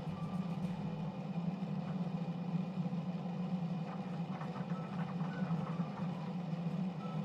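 Bosch WAX32GH1 washing machine's drum motor running steadily while the drum turns to balance a load of towels after a spin that was too unbalanced, a low hum with a faint whine that drifts down in pitch now and then.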